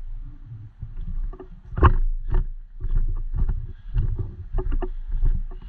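Irregular thumps and rustles of a person moving on foot with gear, over a steady low rumble of wind or handling on the microphone. A sharper knock comes about two seconds in.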